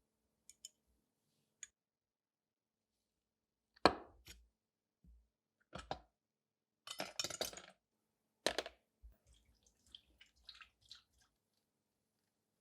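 Small metal objects handled on a hard work surface: a few sharp knocks as pieces are set down, the loudest about four seconds in, a short rattling clink a few seconds later, and faint clicks near the end.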